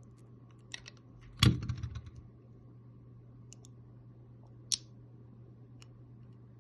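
Knife blade prying at the magnet inside an AirTag's speaker: scattered small clicks, one louder click with a short rattle about a second and a half in, and another sharp click near five seconds.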